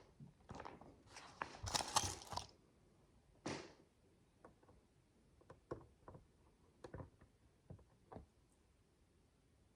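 Micro building bricks being handled: a short burst of plastic rattling and rustling in the first two and a half seconds, then scattered small clicks as pieces are picked up and pressed together.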